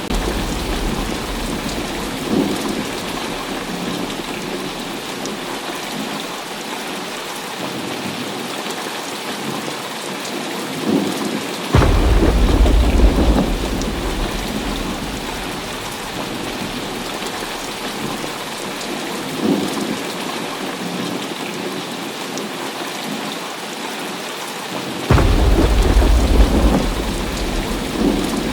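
Heavy rain falling steadily, with thunder rumbling in the background. Two louder, deep claps of thunder start suddenly, about halfway through and again near the end, and each rolls off over a couple of seconds.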